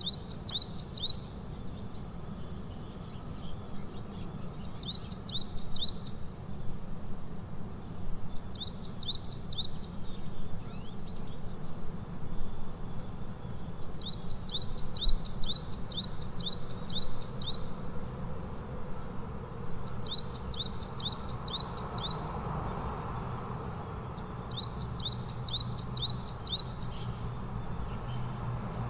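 A bird calling in short runs of four to eight quick, sharp chirps, a run every few seconds, over a steady low rumble of outdoor background noise.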